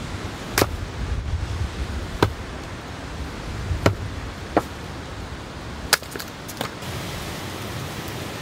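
Steady wind and rain noise with about six sharp pops scattered through it. The low wind rumble drops away about six seconds in, leaving an even hiss of rain.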